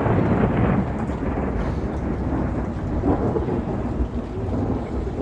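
Thunder rumbling over heavy rain, the long rolling rumble slowly easing off.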